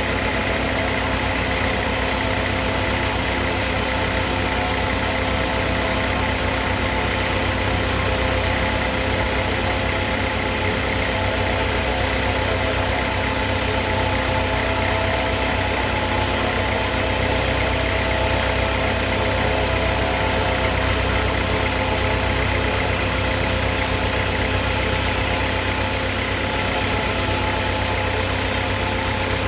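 Sawmill machinery running steadily at a constant pace, a continuous engine-like hum with several steady tones and no pauses or changes.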